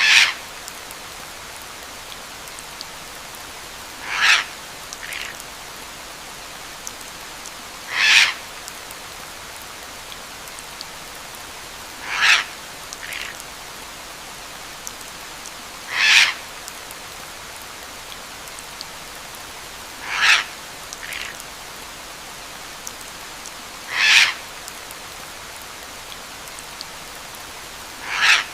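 Steady rain with a bird call repeating about every four seconds, eight times. Some calls are followed by a shorter, fainter note about a second later.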